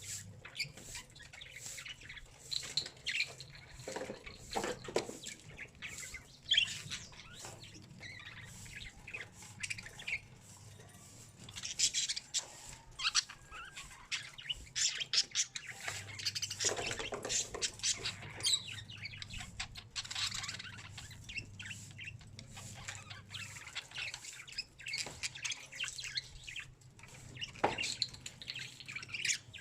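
Parakeets chirping and squawking, a steady scatter of short calls.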